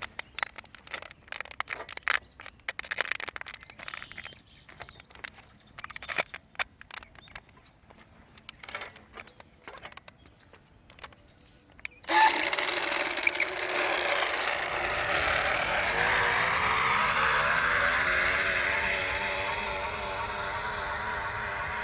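An empty plastic bottle wedged against a bicycle's rear-wheel spokes, rattling irregularly at first. About halfway through it switches abruptly to a continuous buzz that wavers in pitch: the spokes flick the bottle fast enough to give a motorbike-like drone.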